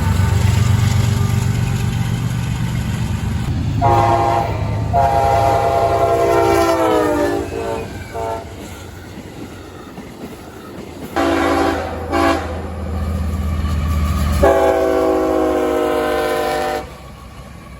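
Amtrak diesel locomotive air horn sounding a series of blasts over the rumble of a passing train. First comes a short blast, then a long one whose pitch sags as the locomotive goes by. A few seconds later come two short blasts and a final long blast, after which the train noise drops off sharply.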